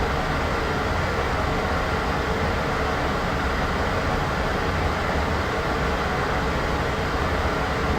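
White noise sound effect: an even, unchanging hiss with most of its weight in the low end, holding the same level throughout.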